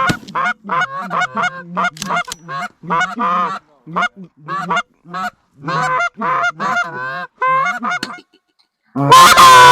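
Canada goose honking: a fast string of short honks and clucks, several a second. The honking pauses briefly near the end, then comes back much louder and close.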